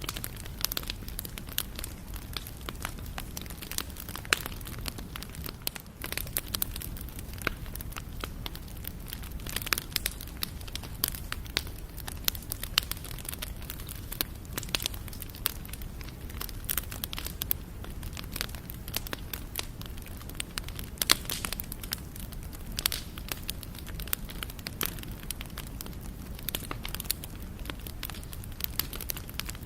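Wood fire burning, with a steady low rumble of flame and frequent irregular sharp crackles and pops from the burning wood.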